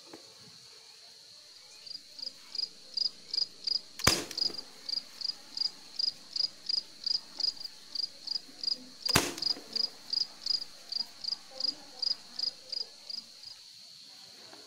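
An insect chirping in a steady series, about three short high chirps a second, over a continuous high drone. The chirping starts about two seconds in and stops near the end. Two sharp knocks come about four and nine seconds in.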